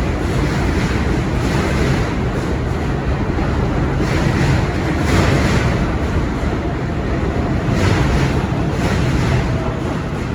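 New York City subway train in motion: a steady low rumble and rushing rail noise that swells and eases every second or so.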